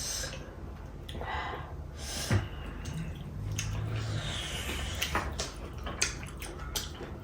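Eating sounds: wet chewing and the soft squish and small clicks of biryani being eaten, with a brief knock about two seconds in.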